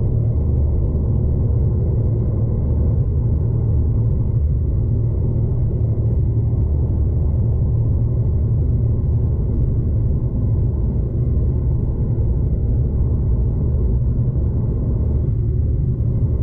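V/Line passenger train running, a steady low rumble heard from inside the carriage.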